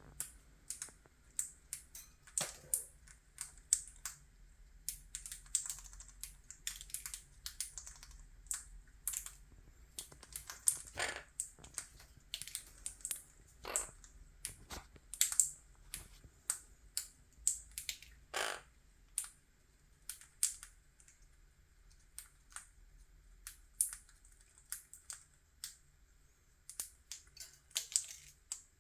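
Monk parakeet (quaker parrot) eating noodles: irregular quick clicks and taps of its beak, one to three a second, with a few louder knocks.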